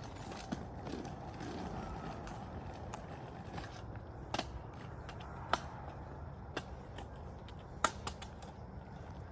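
Kick scooters rolling over pavement: a steady low rumble with a handful of sharp, scattered clacks, the loudest about eight seconds in.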